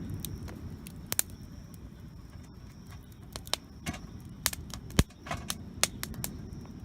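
Wood campfire crackling, with sharp pops and snaps scattered irregularly through it, the loudest about five seconds in, over a low steady rumble.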